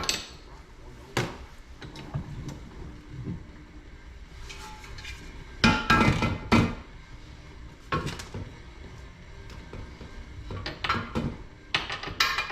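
Scattered metal knocks and clinks of hand tools and parts being worked and set down, with a short cluster of louder hits about six seconds in and another run near the end.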